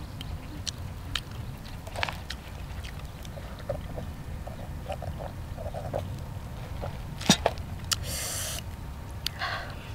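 Close mouth sounds of a person eating grilled octopus: chewing, lip smacks and small wet clicks, with one sharp click about seven seconds in and short hissy sounds near the end, over a steady low rumble.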